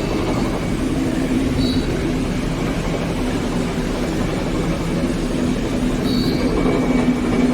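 A large engine running steadily, a continuous rumble with a constant low hum.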